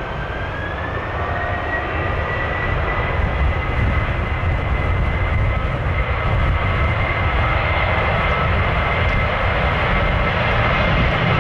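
Jet airliner's engines spooling up for takeoff: a whine that rises in pitch over the first couple of seconds and then holds steady, under a rushing engine noise that grows gradually louder.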